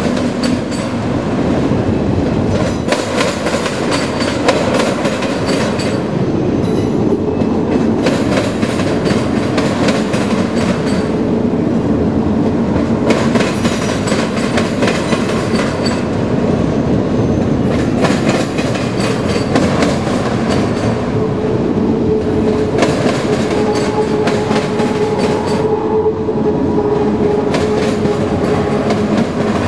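Freight train of autorack cars rolling past: a steady rumble of steel wheels on rail with repeated clickety-clack as the wheels cross rail joints. About two-thirds of the way through, a steady whining tone joins the rumble.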